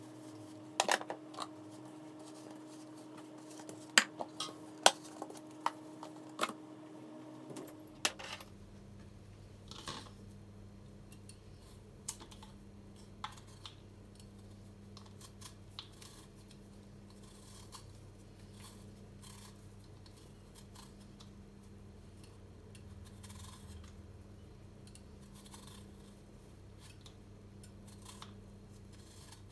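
Light, sharp clicks and clinks of small household objects being handled and set down, most of them in the first eight seconds and sparser after, over a faint steady hum.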